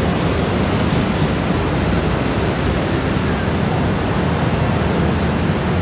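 Steady, even noise of heavy rush-hour motorbike and scooter traffic streaming past, many engines blending into one wash of sound.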